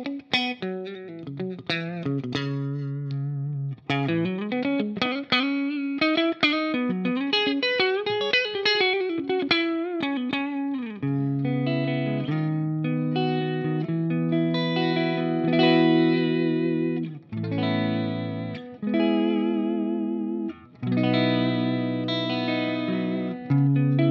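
Two-humbucker Telecaster electric guitar played through effects: single-note lead lines with bends and vibrato, then from about halfway held chords, broken by a few short stops.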